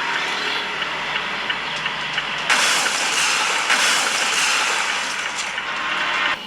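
Steady road and engine noise from a moving vehicle. It grows louder and brighter about two and a half seconds in.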